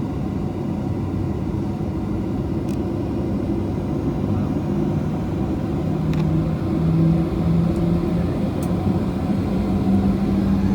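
Boeing 737-800's CFM56 jet engines and airflow heard from inside the cabin as a steady low rumble. A low hum within it rises in pitch in steps from about six seconds in.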